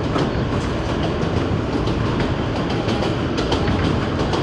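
New York City Subway A train running between stations, heard from inside the car: a steady rumble with irregular sharp clicks of the wheels over the track.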